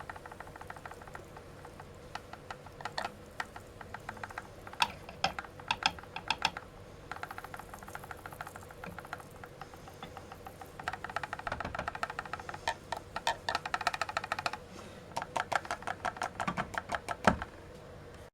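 Static grass applicator shaken over model scenery, giving quick runs of sharp clicking and crackling in irregular bursts over a faint steady hum.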